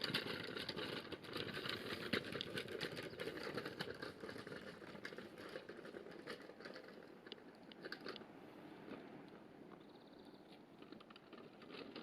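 Steps scuffing and crunching on the ground, a dense run of small ticks and scuffs, growing quieter after about eight seconds.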